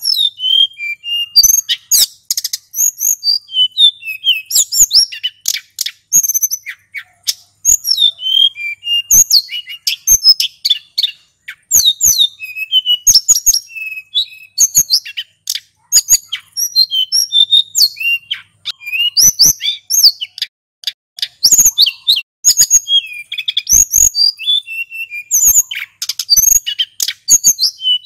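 Male hill blue flycatcher (sulingan gunung) singing nonstop. Its high-pitched song comes in rapid, varied whistled phrases broken by short pauses.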